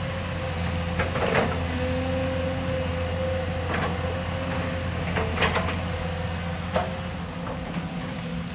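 Hyundai excavator's engine running steadily with a held whine, and several sharp metallic clanks from the working machine: a pair about a second in, one near the middle, two close together past five seconds and one more near seven seconds.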